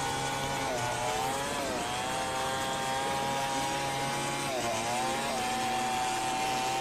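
Chainsaw running at full throttle, its pitch dropping twice as it bogs under load and then recovering, as when cutting along a large log.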